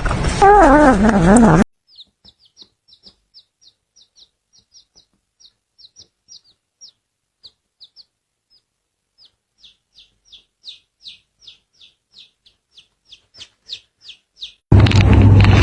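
A dog howling with a falling, wavering pitch, cut off after about a second and a half. Then a long run of short, high, downward-sliding bird peeps, about two a second, growing louder toward the end, until a loud noisy rush with a low hum cuts in near the end.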